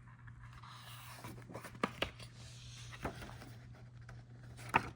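Quiet room with a low steady hum and a few faint handling clicks and rustles, four short clicks in all, the last near the end the loudest.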